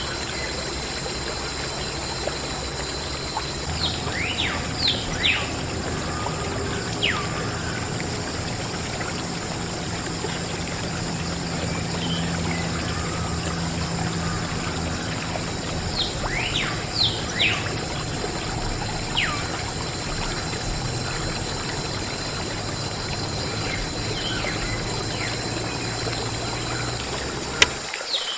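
Water pouring and trickling steadily from a small DIY water pump, over a low steady hum. Birds chirp in short, falling calls a few times, and the sound cuts off suddenly near the end.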